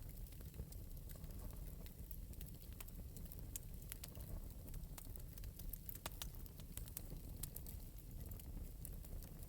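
Fire crackling in an open metal fireplace: irregular small pops and snaps over a low, steady rumble of the flames.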